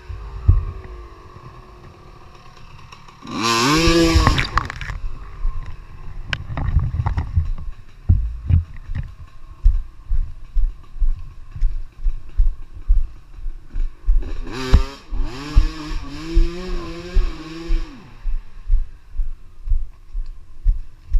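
Dirt bike engine revving up and dropping back in a short burst about four seconds in, then again for several seconds near the end, with quieter running in between. A string of low thumps runs through the second half.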